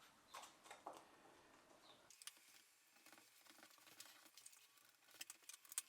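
Near silence with faint scattered clicks and light taps from hands handling card pieces and a glue bottle, with a few sharper clicks near the end.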